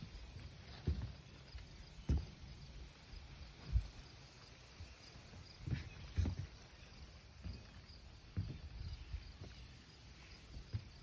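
An insect singing a very high, thin buzz in repeated phrases about two seconds long, each opening with a few quick ticks, with short gaps between. Irregular low thumps and rumble on the microphone are the loudest sounds.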